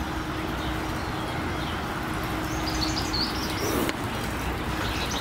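Outdoor ambience: a steady rushing background noise, with birds chirping briefly about three seconds in.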